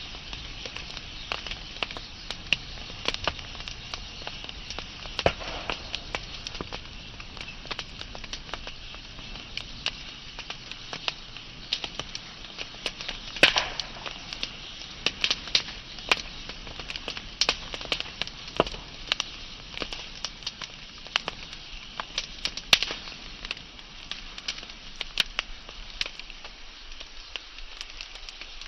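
Wood fire burning: a steady hiss with many irregular crackles and pops, the loudest pop about halfway through.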